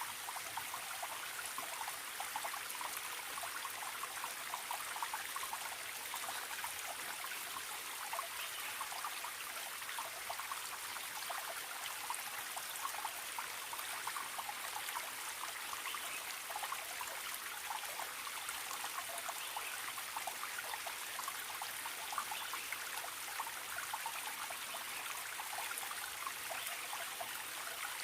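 Forest stream babbling steadily over stones, full of small splashes and trickles.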